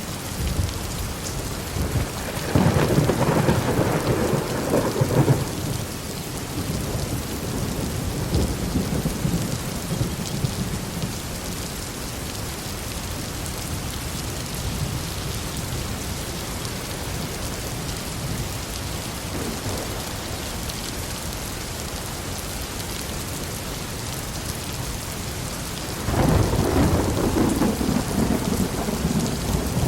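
Heavy rain falling steadily, with thunder rumbling: a loud roll about three seconds in that lasts a few seconds, softer rumbling after it, and another loud roll starting near the end.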